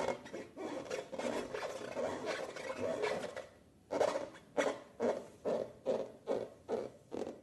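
Slime being squeezed and kneaded by hand: a continuous rubbing, scraping sound, then from about four seconds in a regular run of short squishes, two or three a second.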